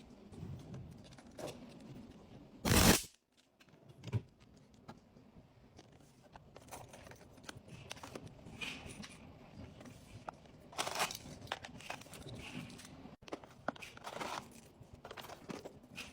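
Packaging being handled during an unboxing: intermittent rustling and crinkling, with one loud, brief rustle a little under three seconds in.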